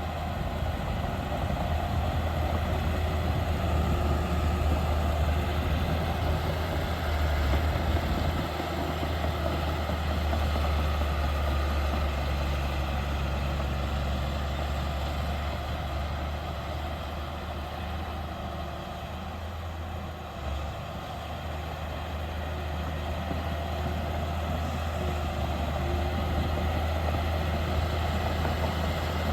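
Heavy earthmoving machinery's diesel engine running steadily with a strong low hum. It is louder over the first several seconds, eases off about two-thirds of the way through, then builds again near the end.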